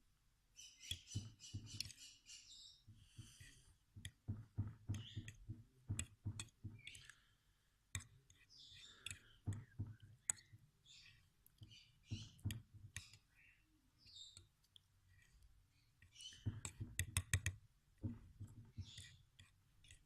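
A fork or spoon clicking and scraping against a bowl in irregular clusters of taps, mashing hard-boiled egg and bread into soft food.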